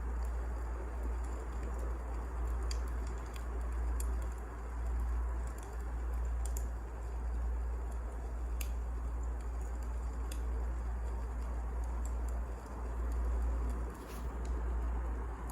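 Wood fire crackling in a fireplace: a steady low rumble with sharp, irregular pops every second or two.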